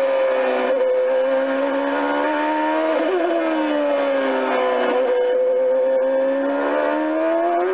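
Jolly Roger American Big Truck kiddie ride's speaker playing a synthesized truck engine sound, its pitch slowly falling and rising again twice.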